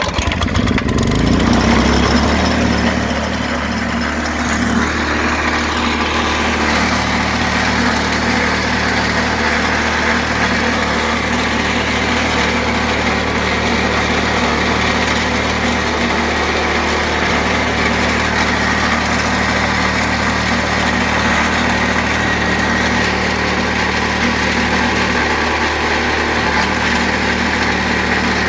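The freshly rebuilt single-cylinder engine of a Bluebird lawn aerator catches on the pull and revs up over the first couple of seconds. It then settles into a steady run at its set throttle.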